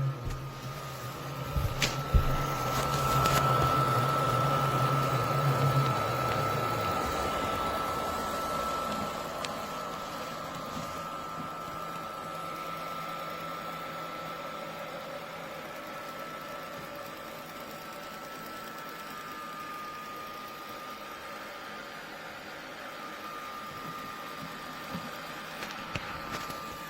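Robot vacuum's suction fan running steadily with a thin whine over a noisy rush. A low hum underneath stops several seconds in, and there is a sharp click about two seconds in.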